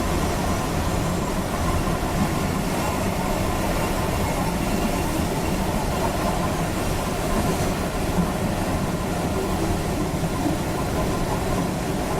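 Steady rushing and rumbling noise inside a glider's cockpit.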